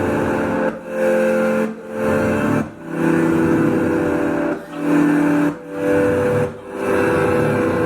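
Live rock band in an instrumental passage: sustained guitar chords, each held for about a second with a short break before the next.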